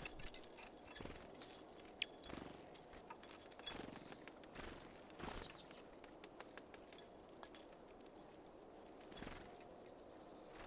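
Small birds at a feeder: faint, irregular tapping and clicking as they peck and handle seeds, with one brief high bird call near the end.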